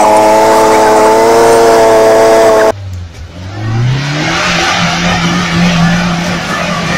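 An off-road vehicle's engine is held at high revs, a steady drone, until it cuts off abruptly about two and a half seconds in. An engine then revs up and runs hard, with a rushing noise over it.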